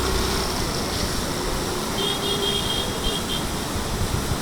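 Steady rush of a waterfall, with a low engine hum fading out in the first half-second. About two seconds in comes a short run of broken high-pitched tones.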